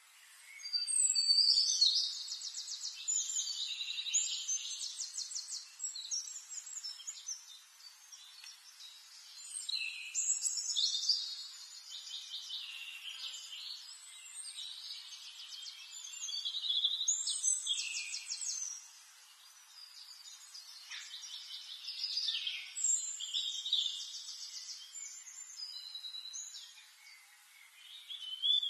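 A bird singing: repeated phrases of high chirps and rapid trills, each one to three seconds long, with short pauses between.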